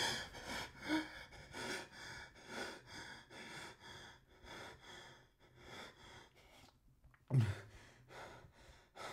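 A man gasping awake and breathing hard and fast, quick heavy breaths about two or three a second that gradually slow, then a louder, lower breath out about seven seconds in.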